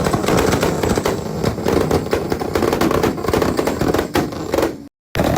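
Car exhaust popping and crackling in a rapid, dense string of bangs, over the engine running hard. The sound breaks off for a moment near the end.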